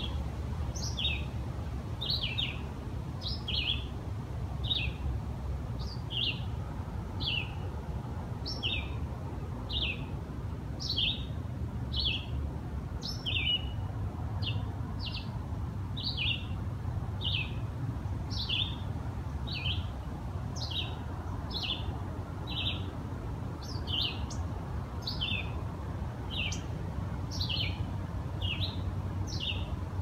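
A bird repeating a short, high, downward-sliding chirp over and over, about one or two notes a second, with a low steady rumble underneath.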